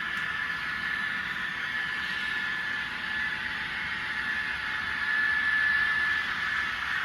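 N scale model train running along the layout track, a steady whirring with a high thin whine from the small locomotive motor and wheels, growing a little louder near the end.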